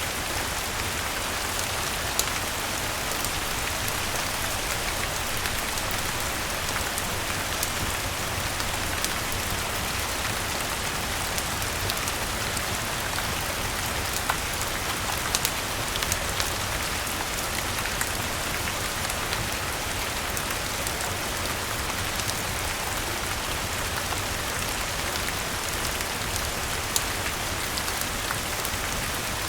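Steady rain falling, with scattered sharp ticks standing out here and there.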